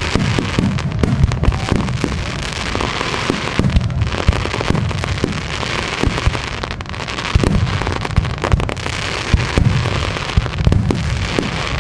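Aerial firework shells bursting one after another, with deep booms overlapping a constant dense crackling and popping from the glittering stars.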